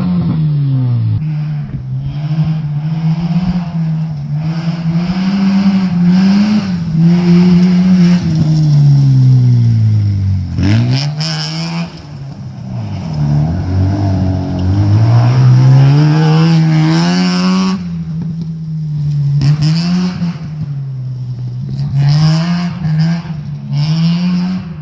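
Mazda RX-7 rally car's rotary engine, a Series 4 six-port 13B, being driven hard. Its pitch rises and falls over and over with the throttle, dropping low about ten seconds in before climbing again.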